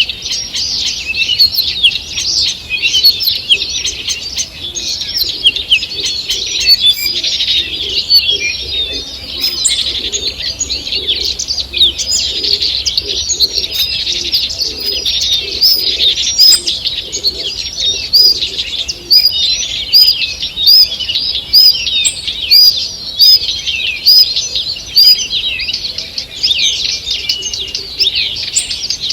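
Morning chorus of many small songbirds in a forest, with dense overlapping high chirps and trills. In the second half one bird repeats a short note about once a second.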